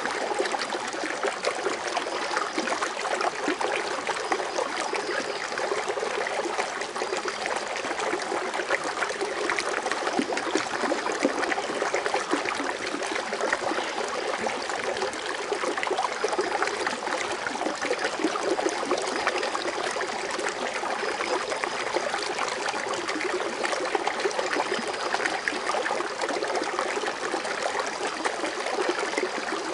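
Garden water fountain running steadily, water splashing and trickling as it foams into its basin.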